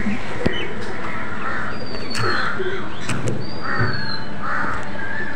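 Birds calling: harsh, cawing calls together with a short high falling whistle repeated about once a second, over a steady background hiss.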